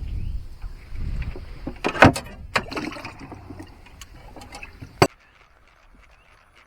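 Handling noise and sharp knocks in a jon boat while landing a fish, with a low rumble early on; the loudest knock comes about two seconds in and another about five seconds in.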